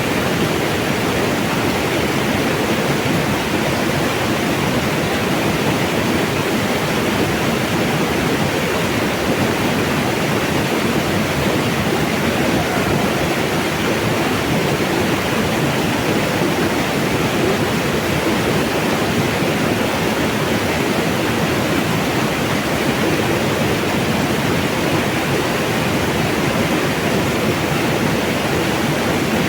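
Mountain water rushing steadily over rocks, an even, unbroken wash of sound.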